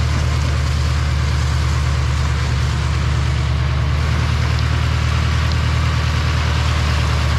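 Four-wheel-drive truck engine running steadily with a deep, even drone and no change in revs.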